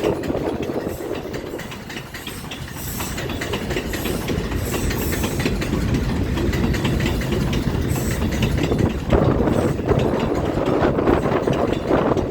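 R142-series subway train running on elevated track: a low rumble with rapid clattering of wheels over the rails, growing louder in the second half.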